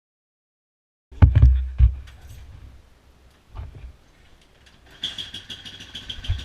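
A few heavy thumps and clicks, then from about five seconds in a motorcycle engine running steadily with a high whine and a rapid even pulse.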